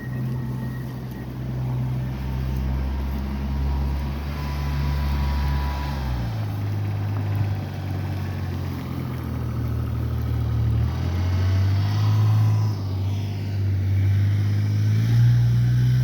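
Engine of a snow-clearing vehicle running while it works, its low note stepping up and down a few times.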